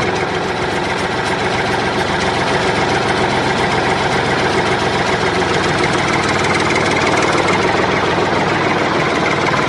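Tractor engine idling steadily, an even fast chug with no change in speed.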